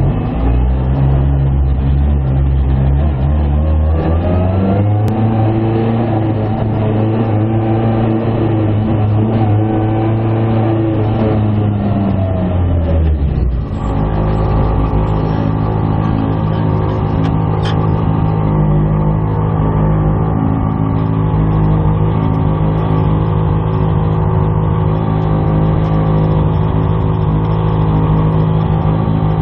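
Rally car engine heard from inside the caged cabin, running at low steady revs, with the revs climbing about four seconds in and held higher for several seconds. Halfway through they drop back to a steady low idle-like running.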